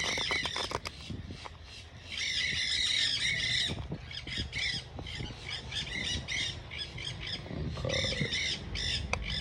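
A flock of birds calling harshly and almost without pause, a noisy chorus heaviest about two to four seconds in and again near the eight-second mark.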